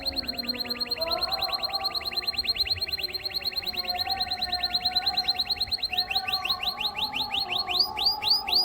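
Domestic canary singing a fast trill of rapidly repeated short notes, which about six seconds in slows into fewer, longer rising notes.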